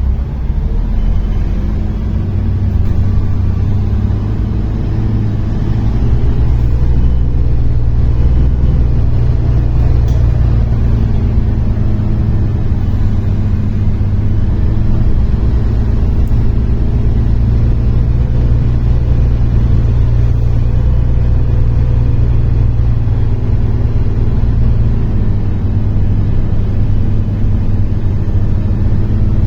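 MAZ-103 city bus's diesel engine and road rumble heard from inside the passenger cabin, as the bus gathers speed over the first few seconds and then runs steadily.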